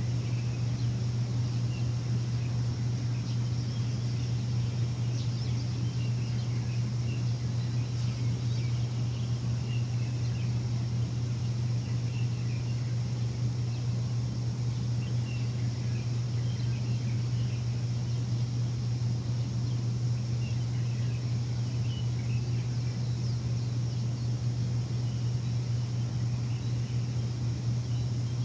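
A steady, unchanging low machine hum, with faint scattered bird chirps over it.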